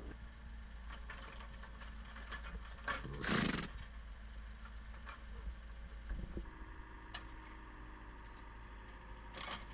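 A horse gives a single short snort about three seconds in, over a faint, steady low rumble.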